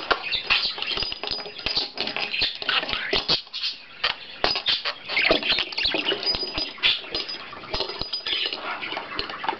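Pet budgerigar chattering and warbling, with frequent quick clicks and taps as it plays with a weeble toy on a table.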